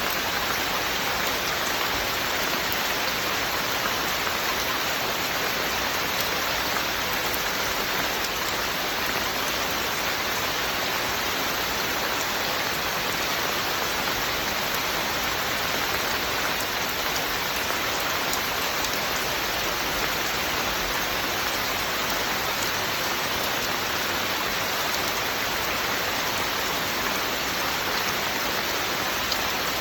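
Steady, even rain falling continuously, with no thunder or breaks.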